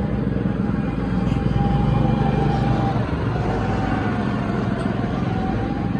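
Several small go-kart engines running steadily as the karts circle the track.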